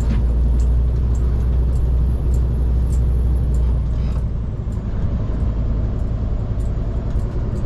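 Scania P360 XT truck's diesel engine running steadily under way, heard from inside the cab, with faint light ticks and rattles. About halfway through the engine note eases a little and a high thin whine drops in pitch.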